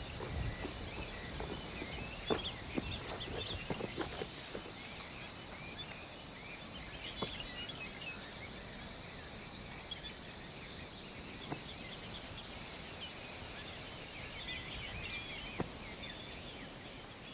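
Rural outdoor ambience: a steady high drone of insects with scattered small bird chirps, and a few soft knocks in the first few seconds.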